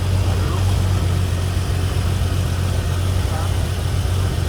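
Suzuki SJ off-roader's engine running steadily at low revs as it creeps along at crawling speed, an even low hum.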